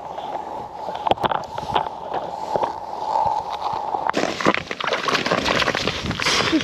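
Water sloshing and splashing in a hole in the ice, with scattered clicks and crackles, getting louder and busier about four seconds in.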